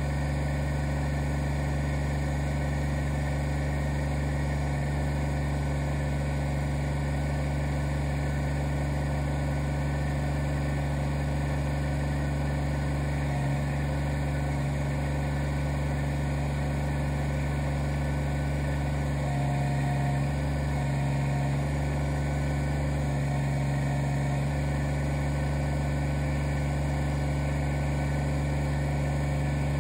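Kubota BX25D tractor's three-cylinder diesel engine running steadily at idle, with a few brief changes in its tone past the middle.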